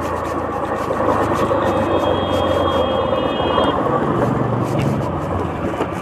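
Motorcycle or scooter engine running steadily while riding, mixed with street and wind noise, with voices in the background.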